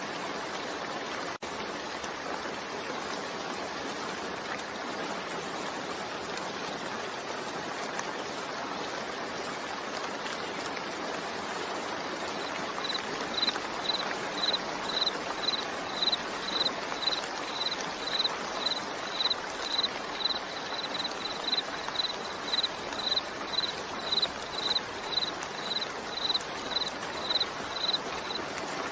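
Steady rain falling, an even hiss. About halfway through, a run of short high-pitched electronic beeps starts, about two a second and briefly quicker in the middle, and carries on over the rain until just before the end.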